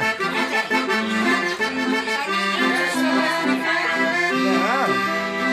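Accordion playing a pisadinha-style tune, steady held chords over bass notes that pulse in an even rhythm.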